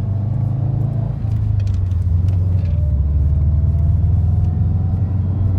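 A 2012 Subaru Impreza WRX STI's turbocharged 2.5-litre flat-four drones low through a Magnaflow cat-back exhaust, heard from inside the moving car's cabin. The note dips briefly about a second in, then its pitch climbs slowly as the engine pulls.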